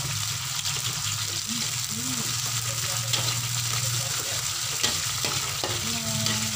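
Sliced green chillies sizzling in hot oil in a wok, stirred with a metal spatula that scrapes and clicks against the pan now and then.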